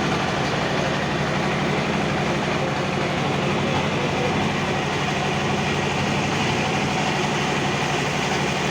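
A boat's engine running steadily, a continuous drone with a fast, even pulsing beat underneath.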